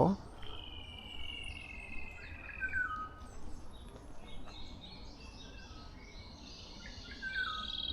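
Wild songbirds calling: a long, steady high whistled note held for about two and a half seconds that drops to a lower note at its end, then scattered chirps, and a rapid trilling song starting near the end.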